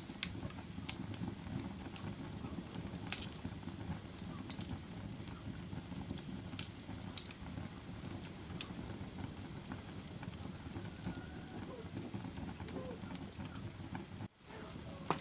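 Fire burning with a steady low rumble and scattered sharp crackles and pops, the loudest about three seconds in. The sound cuts out for an instant near the end.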